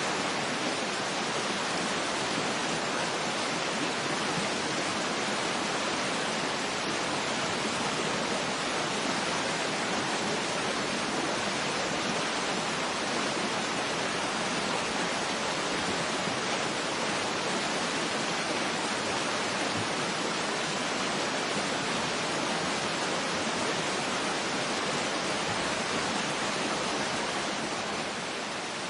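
A waterfall's steady rushing, an unbroken even hiss of falling water.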